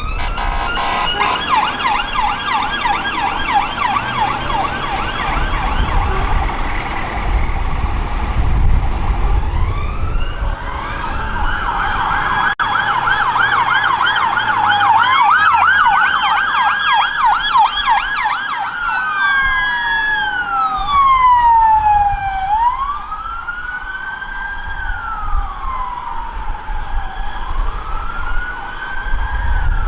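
UK emergency vehicle sirens: a fast yelp for the first several seconds, then overlapping wails from more than one vehicle, settling into a single slow rising-and-falling wail for the last third. A low vehicle rumble sits under the sirens around eight to ten seconds in.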